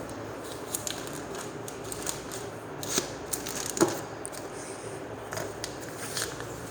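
Scattered light clicks and taps at irregular intervals over a faint steady hum.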